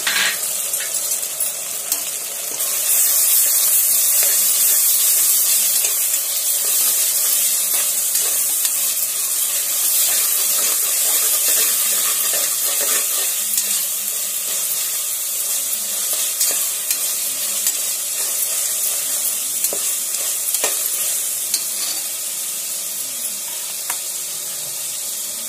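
Ginger-garlic paste and browned onions sizzling in hot oil in a pressure cooker, stirred with a metal ladle that scrapes and knocks lightly against the pot. The sizzling gets louder about two and a half seconds in.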